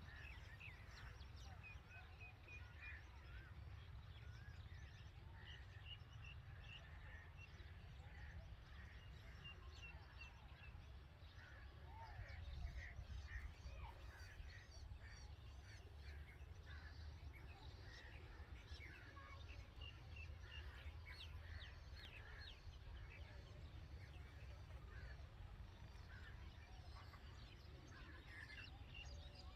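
Faint, frequent short bird chirps and twitters from red-vented bulbuls at their nest, over a steady low rumble.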